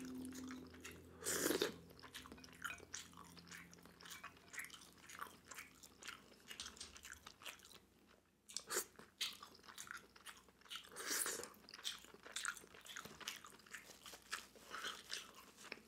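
Close-miked chewing and wet mouth clicks of someone eating steamed clams: a quiet run of small smacks and clicks, with a couple of louder bursts about a second and a half and eleven seconds in.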